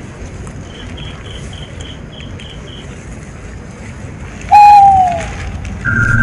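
A bird's loud single hooting call about four and a half seconds in, sliding down in pitch. It follows a faint quick run of high pips in the first three seconds. A steady tone with a low hum begins near the end.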